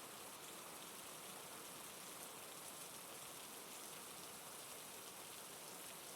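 Steady rain falling, an even patter of raindrops.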